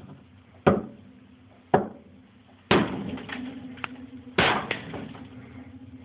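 Hammer blows smashing ice inside a refrigerator: four heavy strikes, the last two each followed by a few smaller knocks and clatter.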